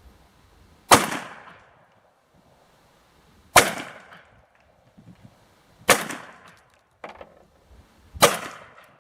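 ATA CY Tactical semi-automatic 12-gauge shotgun firing four rounds of low brass buckshot, spaced roughly two and a half seconds apart, each blast echoing away. A fainter sharp knock comes between the third and fourth shots. The gun cycles each shell properly.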